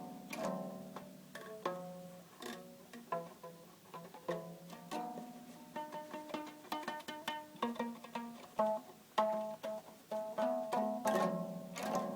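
Stretched rubber bands plucked one after another, twanging at several different pitches in an uneven rhythm, a few notes a second, with a quicker run of notes in the middle.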